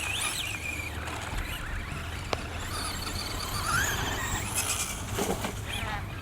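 Electric motors of radio-controlled short-course trucks whining high as they rev up and down, the pitch rising and falling several times, with one sharp click about two and a half seconds in.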